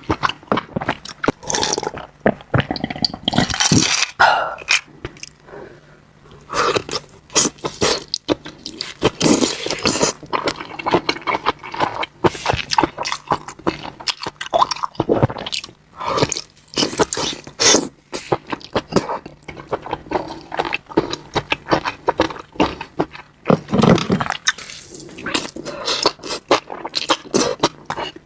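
A person eating close to the microphone, with irregular chewing, crunching and wet mouth sounds.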